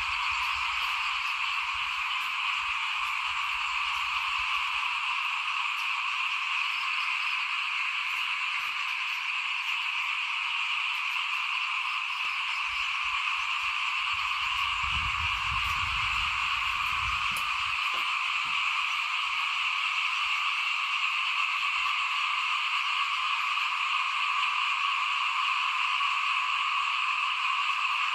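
A dense, unbroken chorus of many small frogs (khiat) calling together, a steady shrill trilling in two pitch bands.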